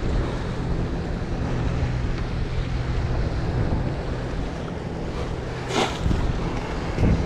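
Wind buffeting the microphone, with a steady low drone under it for about the first five seconds and a short sharp rush of noise about six seconds in.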